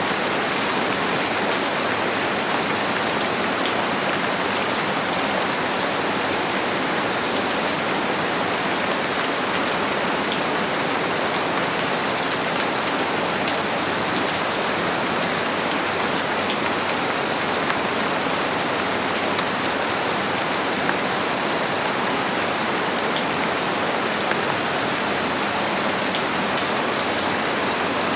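Steady, fairly heavy rain falling on a surface, an even hiss with many small drop patters.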